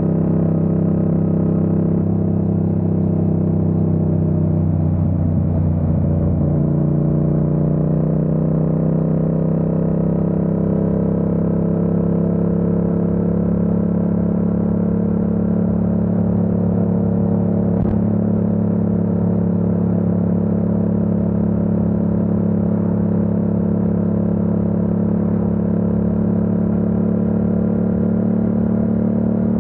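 Yamaha MT-07's parallel-twin engine running at a steady speed, with a brief change in pitch about five or six seconds in. A single short click comes about eighteen seconds in.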